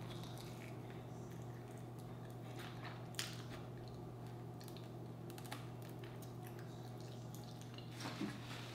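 Chewing and biting on a sauced fried chicken wing: soft wet mouth sounds with a few sharp clicks, about three seconds in, again past the middle and several near the end, over a steady low hum.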